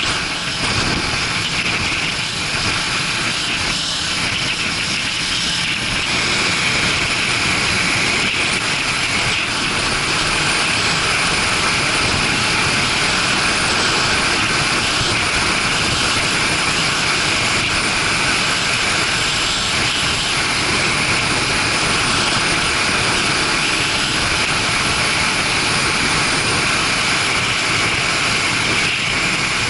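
Steady wind rush and engine drone of a Suzuki GW250 Inazuma motorcycle being ridden at a constant pace, without letup.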